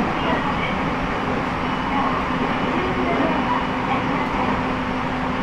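Aoimori Railway electric train running between stations, heard from inside the car: a steady rumble of wheels and running gear with a faint, even low hum.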